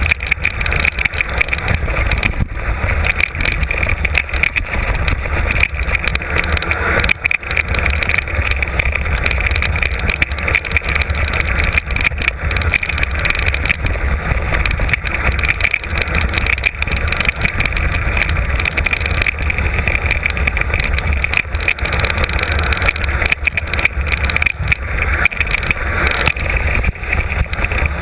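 Mountain bike descending a rough trail, heard from an on-board camera: steady wind on the microphone and a rumble under constant rattling and clattering from the ride over the ground.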